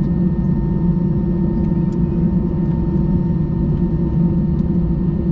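Steady low rumble of an Airbus A320 heard inside the passenger cabin, with a few faint steady hum tones over it and no change in pitch or level.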